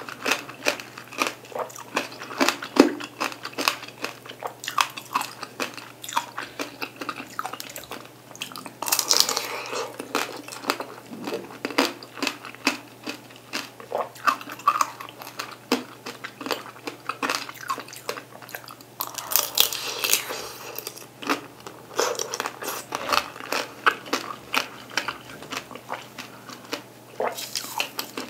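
Chewing and biting of peeled mandarin oranges: dense, irregular mouth clicks and smacks, with a few louder, noisier stretches.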